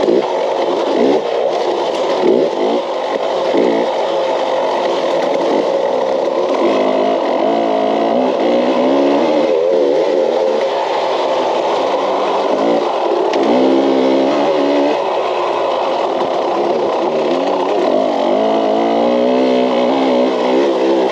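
KTM off-road dirt bike engine, heard from onboard, revving up and down again and again as the throttle is worked over rough trail.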